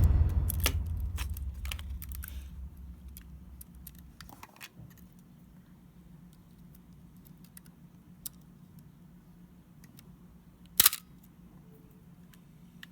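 Music fading out at the start, then a Canon A-1 film camera being handled: scattered small clicks and a sharper double click near the end, as its stuck shutter release button and mode selector knob are tried.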